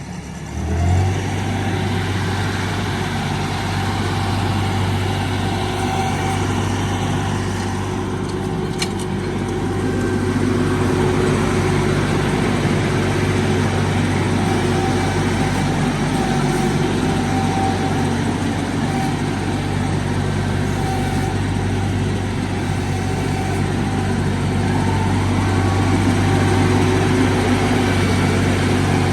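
Tractor engine running steadily at a constant speed, a low hum that starts suddenly about a second in.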